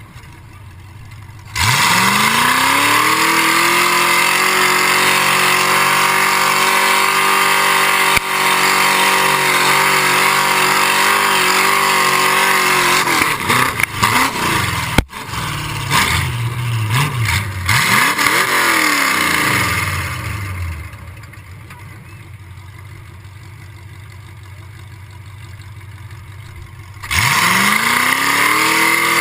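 An off-road vehicle's engine revs up sharply and holds at high revs for about ten seconds, then rises and falls in pitch as the throttle is worked. It drops away for several seconds, then an engine revs up sharply again near the end.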